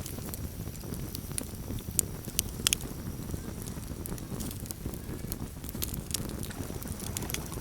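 Campfire burning with a low steady rumble and irregular sharp crackles and pops, the loudest about two seconds in and again shortly after.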